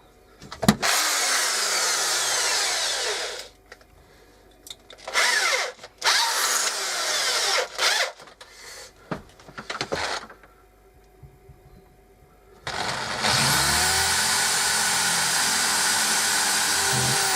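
Power drill boring through wood in several short bursts of one to three seconds. Near the end comes a longer run of about four seconds, the motor whine rising as it spins up and then holding steady.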